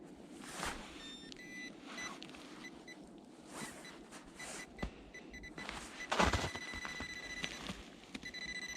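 Metal detector beeping in short, high electronic tones, then holding a steady tone near the end as it sits over the target, an old metal jar lid. Between the beeps come scraping and rustling sounds of digging in loose soil and snow.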